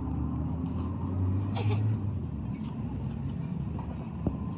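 Low, steady rumble of a running vehicle engine, with a brief hiss about a second and a half in and a single sharp knock near the end.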